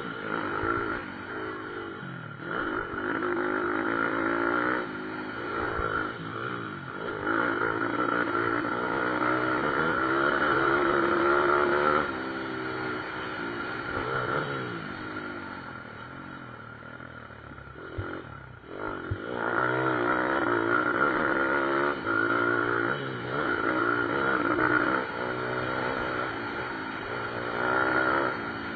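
Pit bikes racing, several small motorcycle engines revving up and dropping back over and over, swelling and fading as they pass, with a quieter stretch about two-thirds through.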